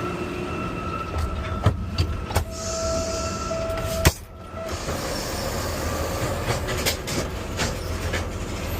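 Garbage truck engine running with a steady hydraulic whine and several sharp metal clunks, the loudest about four seconds in. Soon after, the whine stops and lighter clanks and rattles go on over the engine.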